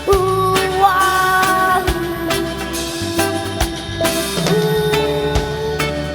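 Live rock band playing an instrumental passage: drum-kit hits keep a steady beat under bass and long held lead notes that change pitch every second or two.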